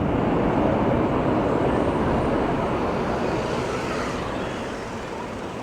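Jet airliner's engine noise, a steady rush without a clear tone that fades gradually as the aircraft moves away.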